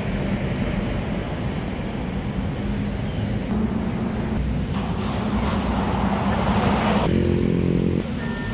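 A motor vehicle running, with a steady low rumble and a brief rise in engine tone near the end that cuts off suddenly.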